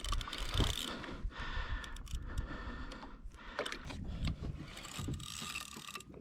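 Fishing reel being cranked in with clicky mechanical winding while a yellowfin tuna (shibi) fights on the line, over water sloshing against the kayak.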